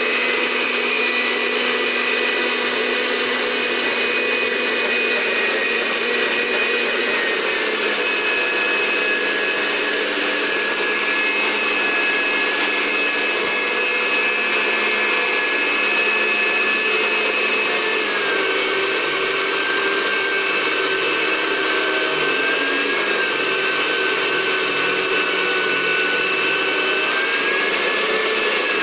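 Electric blender running steadily, blending bird food. Its motor whine steps down slightly in pitch twice, about a quarter and two-thirds of the way through.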